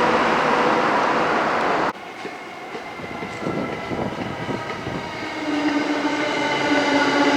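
Sobu Line electric train running: a loud rush of noise with steady whining tones cuts off suddenly about two seconds in. The sound then builds again, with a low steady motor whine coming in about five seconds in.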